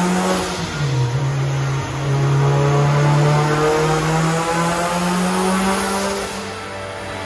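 Turbocharged Honda B16A four-cylinder engine in a 1997 Civic Si pulling hard on a chassis dyno. Its pitch dips briefly about a second in, then rises steadily through the revs, and it eases off near the end.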